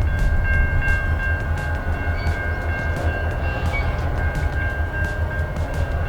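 Diesel locomotive running close by: a steady low rumble with a steady high whine over it, and a regular light ticking about three times a second.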